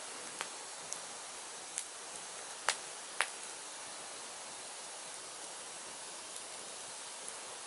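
Firewood burning with a steady hiss, broken by a few sharp crackling pops. The two loudest pops come close together about two and a half and three seconds in.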